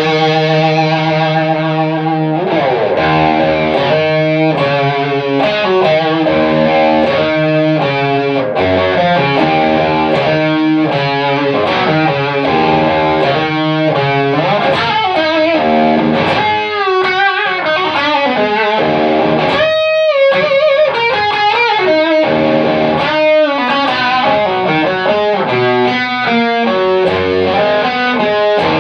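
Electric guitar played through distortion and effects, held chords and picked melody lines, with quicker runs of notes partway through.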